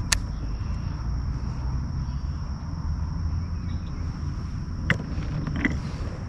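Pond-side outdoor ambience: a constant high insect buzz, typical of crickets, over a steady low rumble, with three sharp clicks, one just after the start and two near the end.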